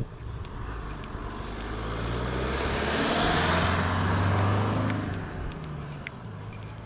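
A car passing by on the road: engine hum and tyre noise grow louder to a peak about three to four seconds in, then fade away.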